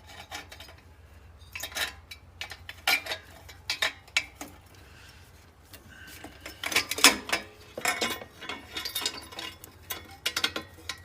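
Irregular metal clinks and knocks of a Harley-Davidson Twin Cam exhaust header pipe being worked up onto the two cylinder-head studs. The taps come scattered, busiest in the second half.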